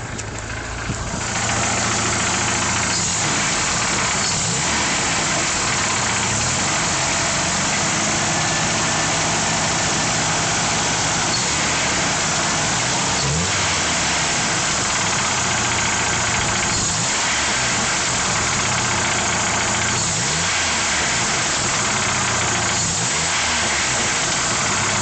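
1995 Jeep Wrangler YJ's 2.5-litre inline-four engine running cold with a knock that follows engine speed, revved briefly about six times with the throttle. The owner suspects piston slap, a knock that goes away once the engine reaches operating temperature.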